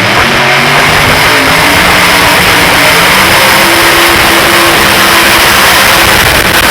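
A pulling tractor's engine running loud and steady at full throttle under load.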